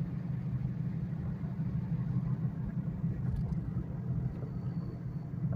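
Car driving, a steady low drone of engine and road noise.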